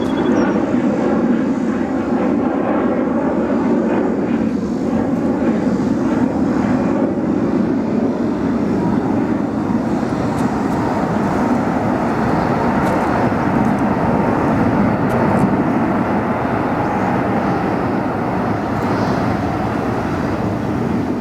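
Four GP7200 turbofan engines of a Korean Air Airbus A380-861 jet airliner running loud and steady as it passes, a deep rumble with a faint whine that fades over the first few seconds.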